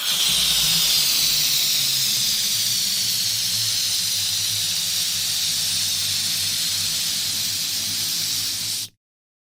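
Electric balloon inflator running: a steady hiss of rushing air over a low motor hum. It cuts off abruptly near the end.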